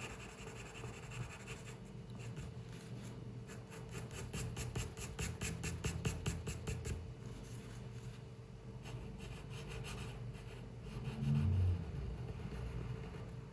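A drawing tool scratching on paper in quick runs of short, closely spaced strokes, pausing briefly in the middle. A low thump comes near the end.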